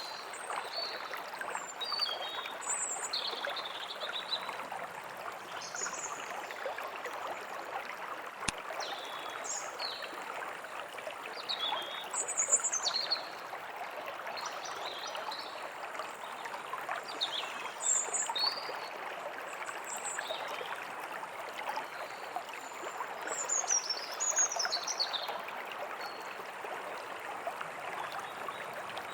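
Forest ambience: a stream running steadily, with small songbirds chirping and trilling intermittently above it. A single sharp click sounds about eight and a half seconds in.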